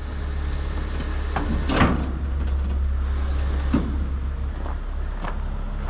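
A heavy truck's diesel engine running steadily, with a few short knocks and clinks of rigging or equipment.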